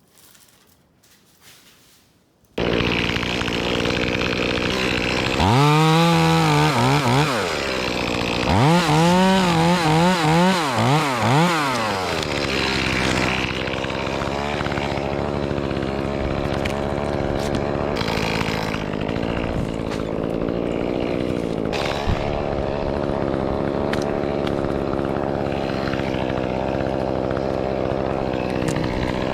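Echo CS-2511T top-handle climbing chainsaw, a small two-stroke, starting abruptly about two and a half seconds in. Its pitch swings up and down in two spells of revving, then it runs steadily.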